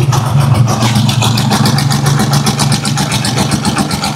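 Rusi Chariot 175 tricycle's engine idling just after being started, a steady fast putter, run to check a freshly spliced hose for leaks.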